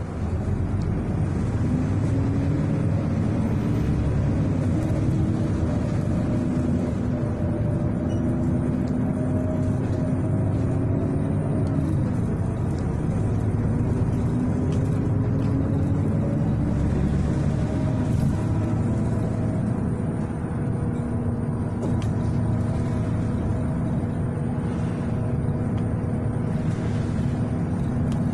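City bus engine and road noise heard from inside the cabin while riding, a steady rumble with an engine note that climbs as the bus pulls away and drops back a few times as it shifts or slows.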